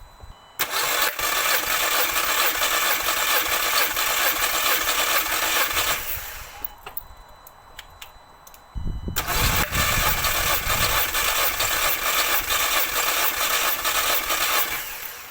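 Mk2 Audi TT four-cylinder engine turning over on the starter motor without firing, with the fuel pump relay pulled for a compression test. There are two cranks of about five to six seconds each, with a short pause between.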